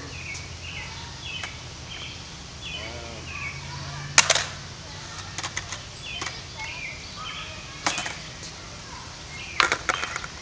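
A bird singing in runs of short, falling chirps, with a few sharp clacks: one about four seconds in, one near eight seconds and a quick cluster near the end.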